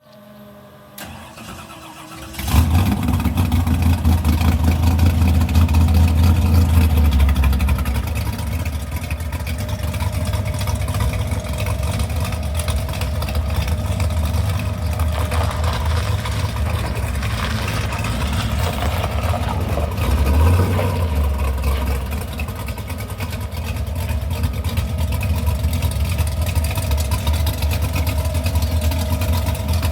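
1985 Chevrolet S10 pickup's engine being cranked and catching about two seconds in, running at a fast idle for several seconds, then settling to a steady idle heard through its exhaust, with a brief rise in revs about two-thirds of the way through.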